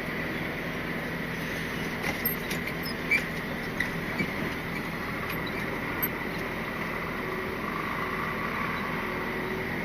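Cab interior of a Scania R450 lorry on the move: steady engine and road noise with a thin high whine. A handful of short, irregular clicks or squeaks from the cab come a couple of seconds in.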